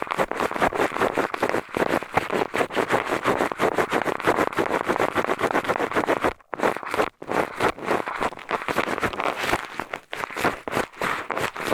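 A pair of eyeglasses used as an ear pick, rubbing and scraping in quick strokes against an ear microphone, with a short pause a little past six seconds in.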